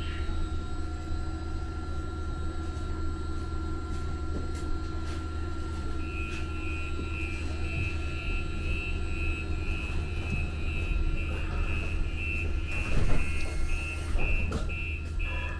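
Steady low hum of a Muni Metro light-rail car in a subway station. About six seconds in, a high beep starts and repeats about twice a second: the door warning signal before the car's doors close.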